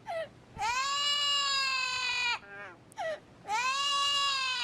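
A parrot wailing like a crying baby: two long, drawn-out cries of nearly two seconds each, each sagging in pitch at its end, with short yelping notes between them.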